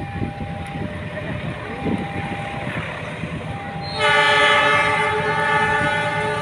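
Train horn sounding a loud, sustained blast with several chord tones, starting suddenly about four seconds in, over the low rumble of a train. Before it, a fainter steady tone sounds on and off.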